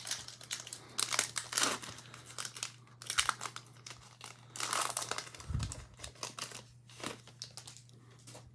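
Wrappers of football trading card packs crinkling and tearing as a pack is opened and handled, in a run of irregular crackles over a faint steady hum.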